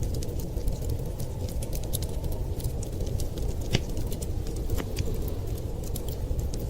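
Wood fire crackling in a fireplace, with frequent irregular sharp pops over a steady low rumble. One pop a little past the middle stands out as louder.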